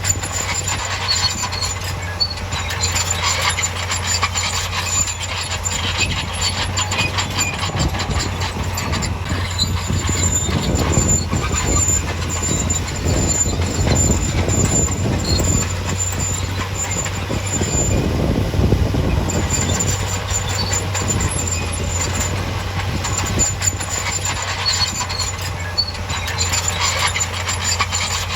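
Heavy construction machinery working: a diesel engine runs steadily under continuous metallic clanking and rattling, with a thin high squeal that comes and goes. The clatter grows busier and louder in the middle.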